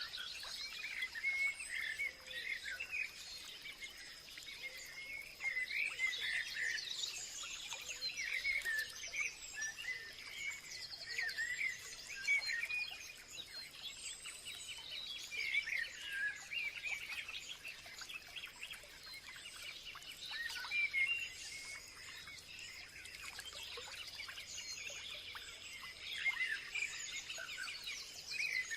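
Several songbirds chirping and warbling at once in a continuous dawn-chorus-like mix of short, quick calls, over a steady high thin buzz.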